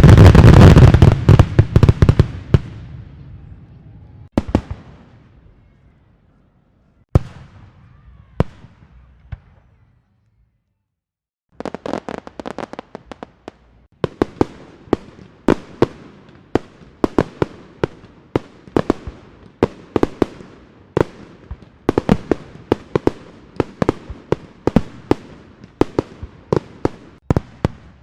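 Fireworks going off. A loud bang opens with a long rumbling decay, followed by a few scattered single bangs and a short lull. Then, from about halfway through, comes a long rapid run of sharp cracks, about two or three a second.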